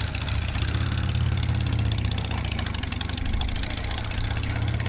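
Harley-Davidson V-twin motorcycle engine running steadily at cruising speed.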